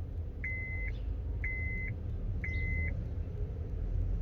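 Electronic beep sounding three times, about once a second, each a steady tone of just under half a second, then stopping. A low steady hum runs underneath.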